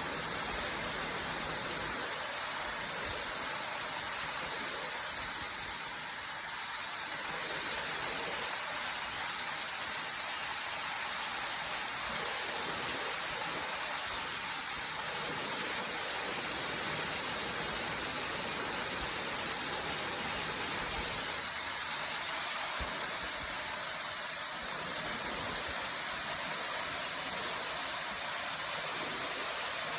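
Waterfall rushing, a steady even hiss of falling water with no let-up.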